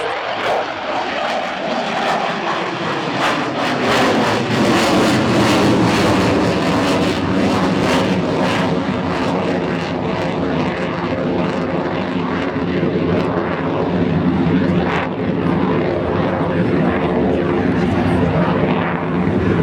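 Military jet aircraft engine noise during a display pass. It is loud and rough, grows louder about four seconds in with a crackling rasp, then settles into a steady low drone.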